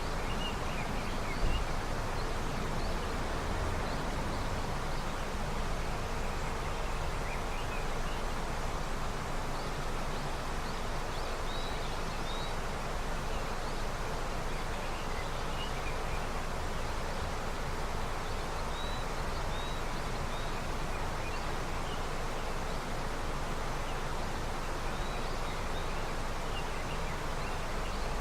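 A snowmelt river flowing in a steady, even rush, with small birds chirping faintly now and then. A brief low thump about a second and a half in.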